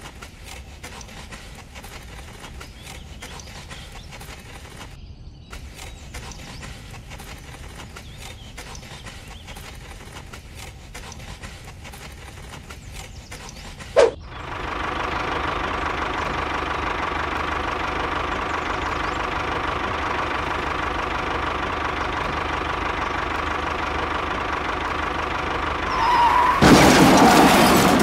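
Faint scraping and tapping as wet concrete is smoothed with a miniature trowel. After a sharp click about halfway through, a small tractor engine starts running steadily, and it grows louder near the end.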